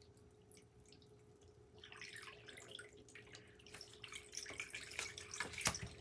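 Tarot cards being handled: light rustling and many small clicks, starting about two seconds in and getting busier toward the end, over a faint steady hum.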